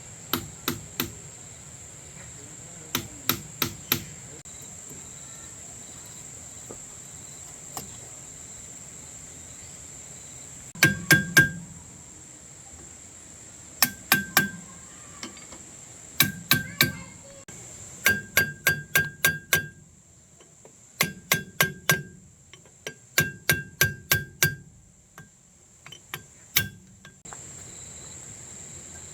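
Hammer blows on metal in quick runs of three to six strikes, each run with a short ringing note, repeated about a dozen times. Insects shrill steadily behind them.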